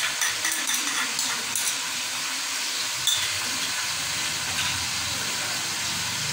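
Chicken pieces frying in hot oil in an aluminium pot, a steady sizzle, with ginger-garlic paste just going in. A few light clicks sound in the first two seconds and once about three seconds in.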